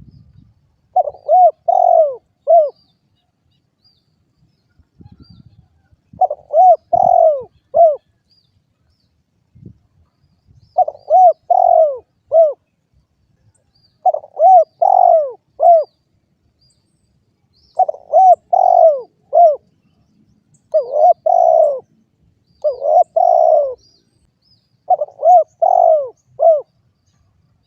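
Spotted dove (derkuku) cooing: a phrase of three or four rounded coo notes, the last one short and set apart, repeated about eight times with pauses of a second or more between phrases.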